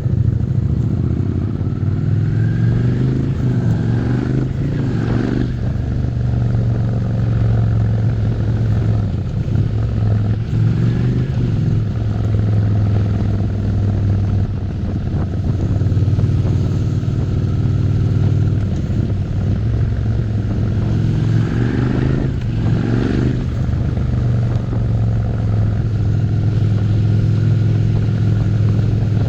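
Suzuki SV650's 90-degree V-twin engine running under way, holding a steady cruise with the revs climbing briefly a few seconds in and again about three quarters of the way through.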